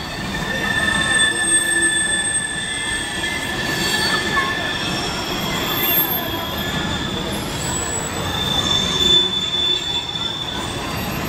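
Freight train rolling steadily through a level crossing: a continuous rumble of passing cars, with the wheels squealing in high steady tones that come and go.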